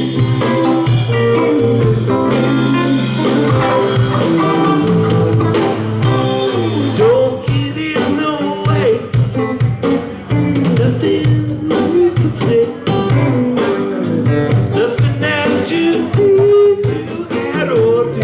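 Live rock band playing an easy-going blues-rock groove: electric guitars, bass, keyboards and drums, with a lead guitar line sliding between notes.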